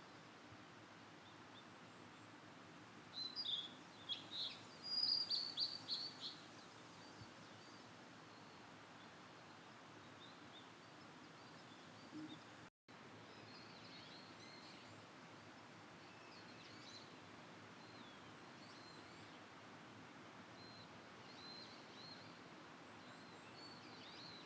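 Blue-and-white flycatcher singing: one phrase of quick, high whistled notes lasting about three seconds, starting about three seconds in, followed by fainter scattered chirps over a steady low hiss. The sound cuts out briefly about halfway through.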